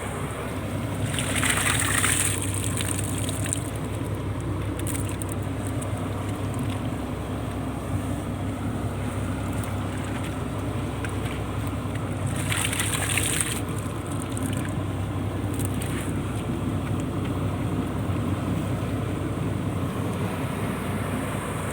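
Purse-seine fishing boat's engine running steadily, with two short bursts of splashing, hissing noise, one about a second in and one about twelve seconds in.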